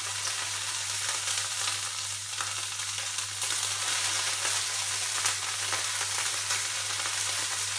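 Fresh cilantro leaves sizzling as they are scattered into a little hot oil in a frying pan: a steady hiss with small scattered crackles.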